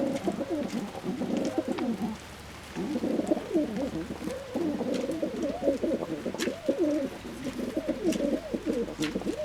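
Fantail pigeons cooing, several birds' coos overlapping in long bouts, with a short lull about two seconds in.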